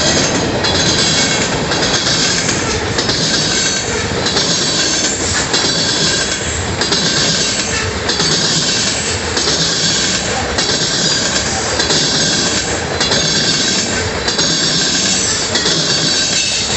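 Freight train of tank cars rolling past close by, a steady rumble of steel wheels on rail. A high-pitched wheel squeal comes and goes roughly once a second.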